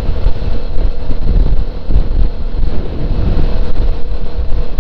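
Wind buffeting a helmet microphone while riding a Suzuki V-Strom 650 motorcycle, with the bike's engine running steadily underneath.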